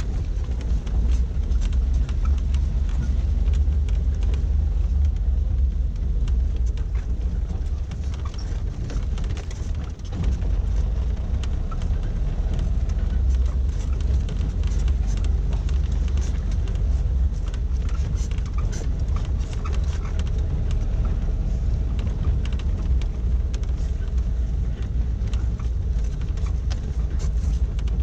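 1988 Suzuki SJ413 Samurai's 1.3-litre four-cylinder engine running under way on a gravel track, with a deep steady rumble and many short clicks and knocks over it. Loudness dips briefly about ten seconds in.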